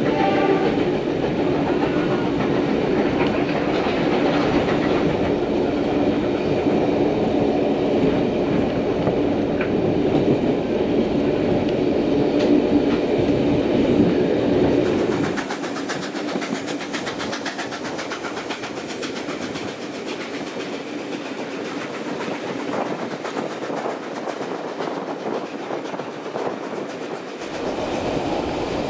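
Steady running noise of a passenger train carriage on the rails, heard from inside the compartment, with the wheels clicking over the track. About halfway through the deep rumble drops away and the sound turns quieter and lighter; the heavier rumble comes back near the end.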